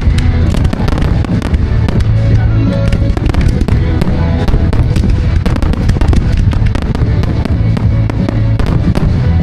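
Fireworks going off in rapid, continuous succession: dense crackling and bangs over a heavy low rumble, with music playing underneath.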